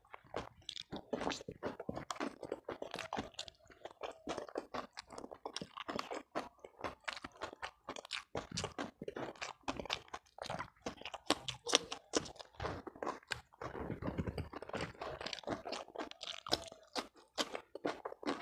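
Close-miked chewing: a steady stream of crunches and wet mouth clicks from a person eating rice and fried side dishes by hand.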